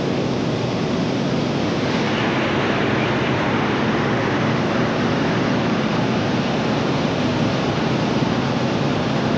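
Hot air balloon's propane burner firing in a long, steady burn.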